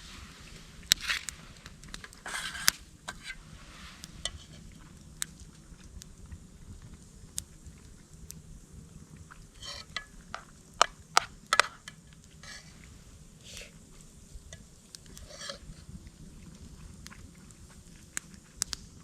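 Scattered sharp clicks, light clinks and a few short scrapes of camp cooking and cookware being handled, with a cluster of louder clicks about ten seconds in.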